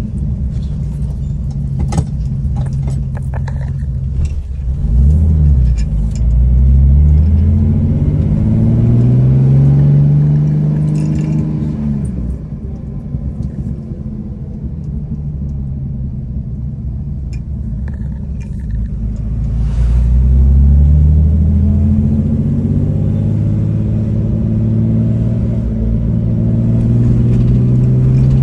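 1965 Chevrolet Corvair Corsa's rear-mounted air-cooled flat-six running as the car drives, heard from inside the cabin. The engine note climbs as it accelerates about five seconds in, eases off at about twelve seconds, and climbs again at about twenty seconds. A few light clicks come near the start.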